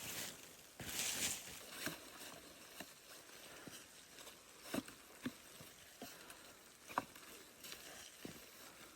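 Two short rustling swishes in the first second or so, then scattered light clicks and knocks at irregular intervals over a faint background hiss.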